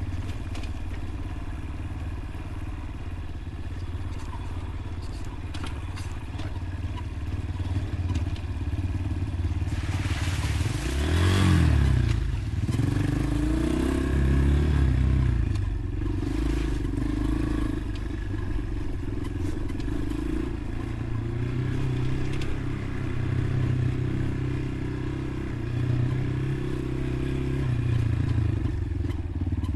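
Dirt bike engine running under way on a trail, its revs going up and down with the throttle. About ten seconds in there is a sharp rev rise and fall together with a brief burst of noise.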